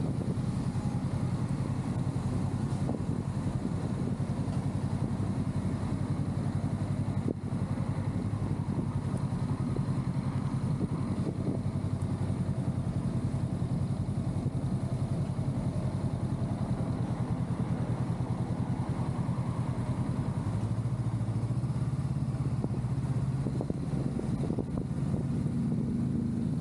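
Honda Rebel 500's 471 cc parallel-twin engine running steadily while riding slowly in heavy traffic, its pitch rising a little about twenty seconds in.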